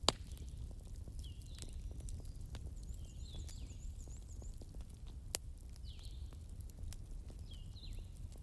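Wood fire burning in a fireplace: a steady low rumble with scattered crackles and pops, a sharp pop right at the start and another about five seconds in. Short high chirps recur every second or two over the fire.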